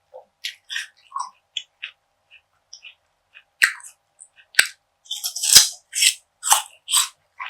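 Close-miked crunchy eating of perilla seed gangjeong, a brittle bar of perilla seeds bound with syrup. Small mouth clicks give way to a few sharp cracking bites, then steady crisp crunching about two chews a second.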